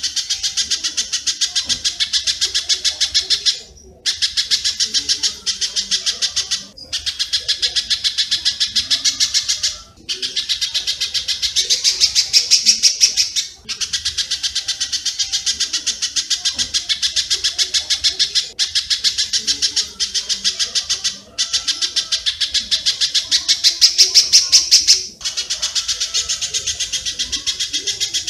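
Masteran recording of spiderhunter (pijantung) and swiftlet (walet) calls: a fast, dense run of harsh high chirps, several a second, in phrases a few seconds long with brief breaks between them.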